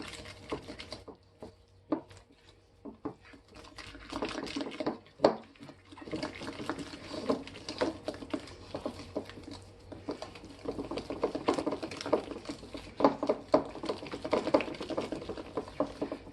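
Cake batter being mixed by hand in a bowl: a utensil scraping and knocking against the bowl. It is sparse for the first few seconds, then turns into a dense run of rapid strokes from about four seconds in.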